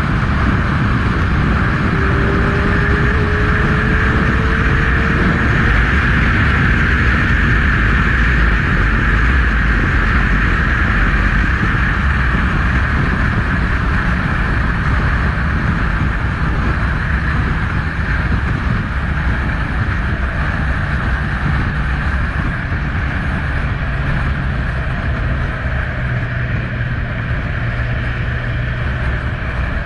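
Kawasaki Z1000 motorcycle's inline-four engine running steadily, a continuous even drone with no sharp revs, easing slightly in level over the second half.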